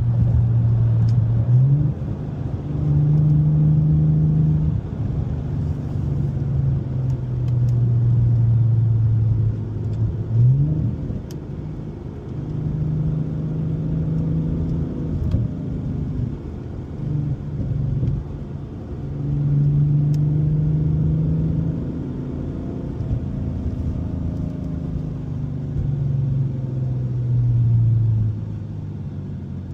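2017 Ford Mustang's 3.7-litre V6 running through an MBRP aftermarket exhaust with an H-pipe while driving. The exhaust note holds, then steps up and down in pitch with acceleration and gear changes, with a quick rising rev about ten seconds in and again near the end.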